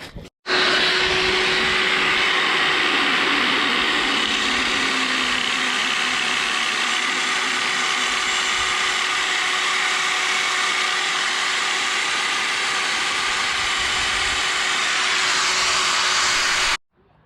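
A power tool running steadily for about sixteen seconds, with a hissing, even noise and a faint steady hum, cutting in shortly after the start and cutting off sharply near the end.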